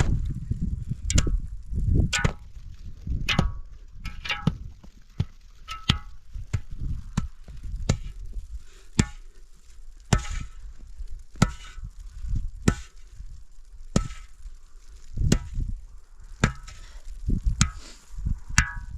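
A tool striking over and over in a chopping rhythm, roughly one blow a second, each a sharp knock with a dull low thud and a brief ring.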